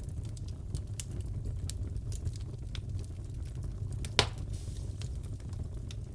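Crackling wood fire in a fireplace: a low steady rumble with scattered small crackles and one loud pop about four seconds in.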